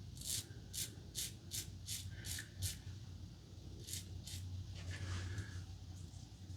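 Razor Company Vanguard safety razor scraping short strokes over the skin, about seven quick strokes in the first three seconds and two more about four seconds in: a touch-up pass over a spot of leftover stubble.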